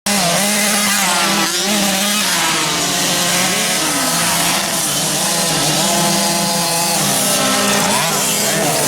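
Several motocross motorcycles running at once, their engines revving up and down over one another at race pace.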